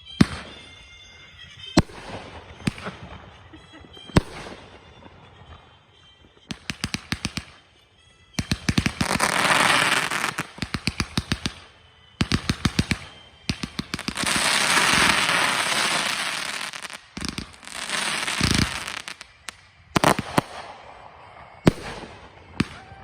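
Consumer fireworks finale: single loud reports, then rapid strings of bangs and long stretches of dense crackling, with a few separate booms near the end.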